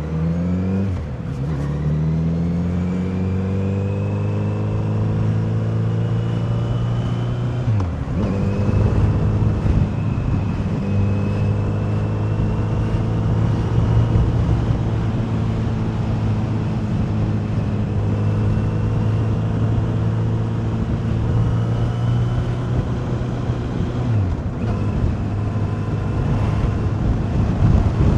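Kawasaki Z900RS inline-four engine and exhaust running. The pitch rises over the first couple of seconds and then holds steady, with brief dips in revs about 8 and 24 seconds in.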